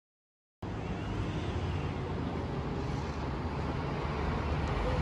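Steady low rumble of a motor vehicle running, cutting in abruptly about half a second in after dead silence.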